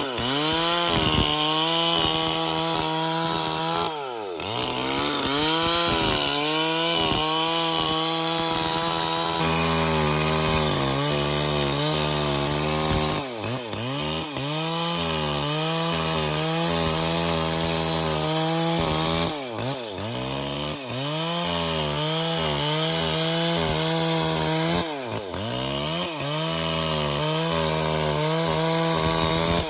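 Stihl MS440 chainsaw cutting bayur wood, held at high revs through long stretches. It drops back and revs up again every few seconds.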